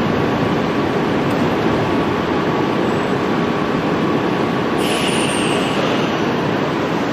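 Tokyo Metro 5000 series train running, a steady loud rumble of wheels on rail, with a brief high squeal about five seconds in.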